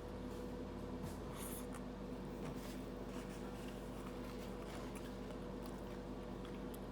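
Faint eating sounds, scattered small crunches and clicks of someone chewing food, over a steady low hum.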